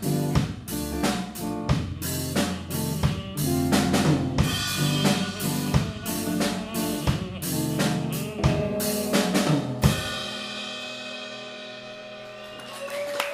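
Live band playing with a full drum kit, snare and bass drum hitting a steady beat under sustained guitar and bass notes, without vocals. About ten seconds in it stops on a final hit and the last chord is left ringing and slowly fading.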